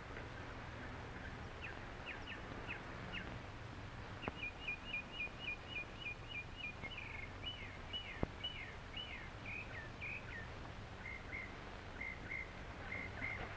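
A songbird singing: scattered high chirps, then about four seconds in a fast string of about ten chirps, followed by falling slurred notes and paired notes near the end. It sits over the steady low hum of an old film soundtrack, with two faint clicks.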